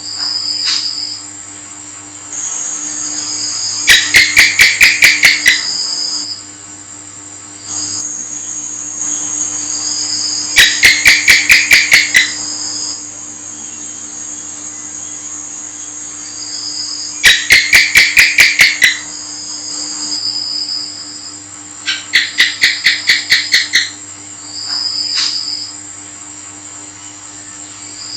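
House gecko (cicak) calling: four bouts of rapid, evenly spaced chirps, about six a second, each bout lasting under two seconds and coming back every six seconds or so. Steady high-pitched insect trills run underneath.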